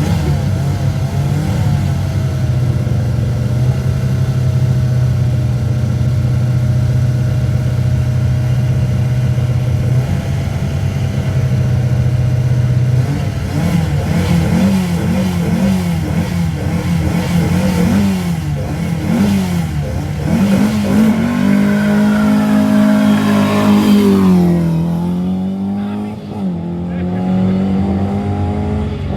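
Historic rally car engine at full song. It holds one steady pitch for the first part, then revs rise and fall repeatedly through gear changes, with a sharp drop in revs near the end before it climbs again.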